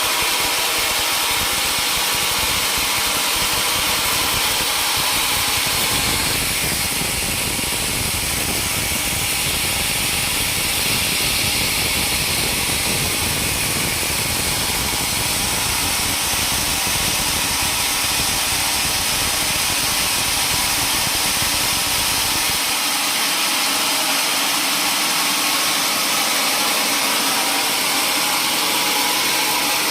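Sawmill machinery running steadily with a continuous loud mechanical noise. A deeper rumble comes in about six seconds in and drops out again about three-quarters of the way through.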